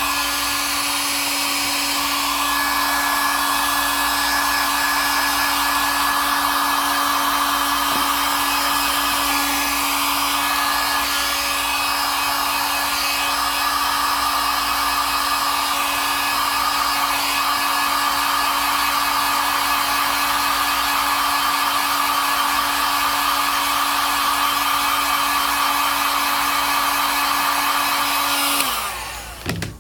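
Heat gun blowing steadily, with a constant motor hum under the rush of air, warming the phone to soften the adhesive that holds its glass. It winds down and stops near the end.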